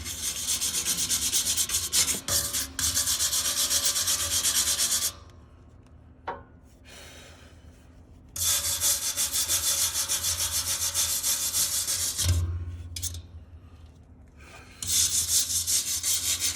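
Hand sanding of a rusty steel exhaust pipe on a semi truck: fast back-and-forth abrasive strokes in three spells, pausing about five seconds in and again about twelve seconds in, smoothing the rusted surface before it is sealed.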